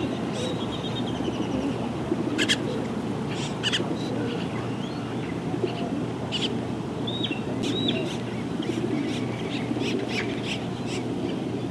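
Several birds chirping and calling: many short chirps and a few quick hooked notes, spread irregularly, over a steady low background rumble.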